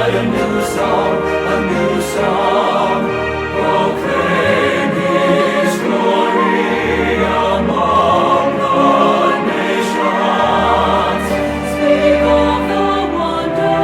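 Choir singing with orchestral accompaniment: a sustained, wordless-sounding passage of worship music.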